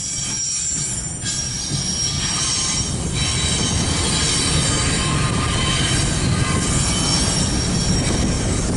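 Freight train cars rolling past with a steady low rumble, and a thin, high wheel squeal running over it.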